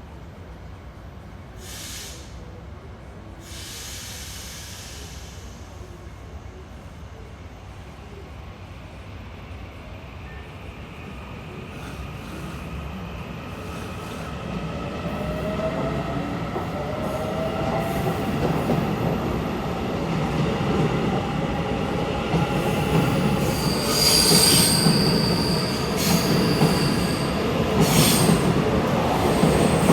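Taiwan Railways EMU900 electric multiple unit pulling out of a station: the electric traction drive whines, rising in pitch as the train gathers speed, over a rumble of wheels on rail that grows steadily louder. Near the end, high-pitched wheel squeals and short hisses come as the cars pass close.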